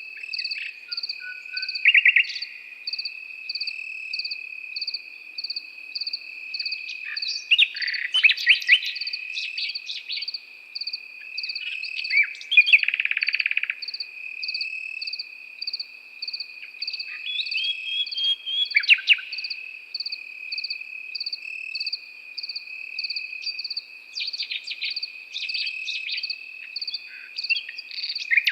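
A nightingale sings short, varied phrases every few seconds over a continuous cricket chorus. The crickets make one steady high trill plus a second chirp that repeats in even pulses.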